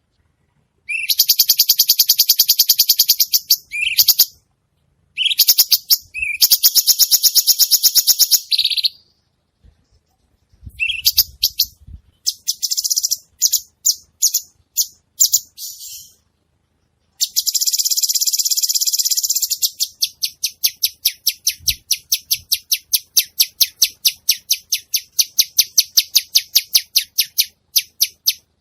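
A cucak cungkok songbird singing continuously, with high, rapid buzzy trills lasting a few seconds each. Toward the end it breaks into a long run of separate sharp chirps, about three a second.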